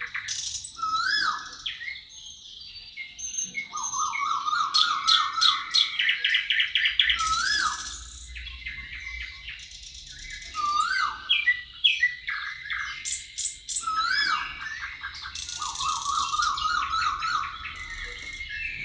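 Birds singing in a forest. The song mixes rapid trills, short rising-then-falling whistled notes and high buzzy bursts, in phrases that repeat every few seconds.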